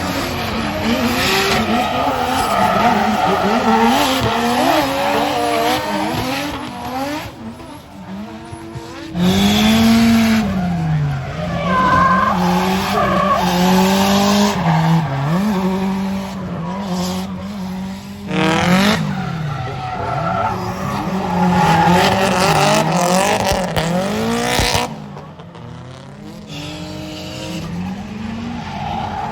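Drift cars sliding with engines revving up and down and tyres squealing, the sound changing abruptly a few times as one pass gives way to another.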